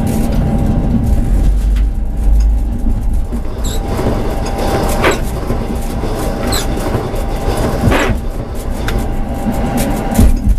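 Tram running along the track, heard from on board: a steady low rumble with a faint steady tone, and four sharp knocks from the wheels on the rails, about every one and a half seconds.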